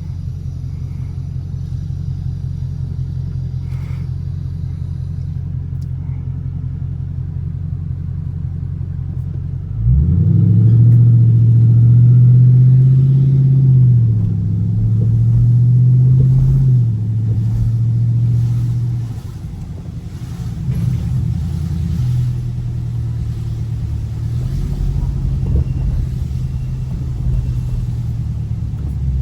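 Dodge Scat Pack's 6.4-litre HEMI V8 running steadily at low revs, then about ten seconds in getting louder as it accelerates, the pitch climbing and dropping back a few times through gear changes before settling to a steady cruise.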